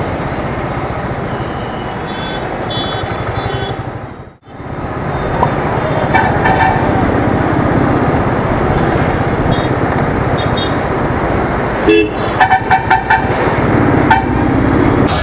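Royal Enfield Thunderbird's single-cylinder engine running through traffic, with vehicle horns honking several times and a quick run of short beeps near the end. The sound cuts out briefly about a third of the way in.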